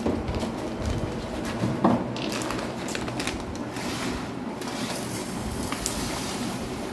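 A few soft knocks and clicks, with the clearest just under two seconds in, over a steady background hiss.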